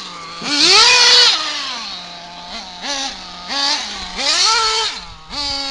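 Small nitro-fuelled two-stroke engine of an RC buggy being revved hard again and again. Its high, buzzing note climbs steeply and falls back to idle five or six times, with the biggest, loudest rev about half a second in.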